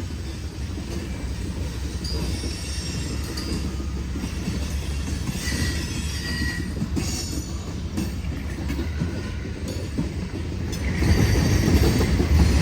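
Freight cars rolling past on the wye track with a steady low rumble and short, intermittent high-pitched wheel squeals. The sound grows louder near the end.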